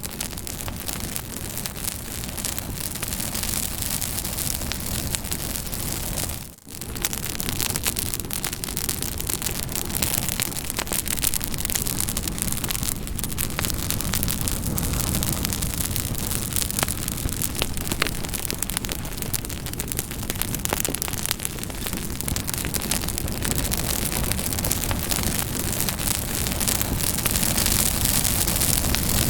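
Wood campfire crackling, a dense steady hiss of flames strewn with many small sharp pops and snaps. The sound briefly dips out about six and a half seconds in.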